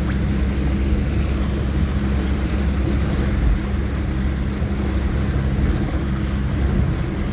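Off-road four-wheel-drive vehicle's engine running steadily as it drives through deep river water, with water rushing and washing around it.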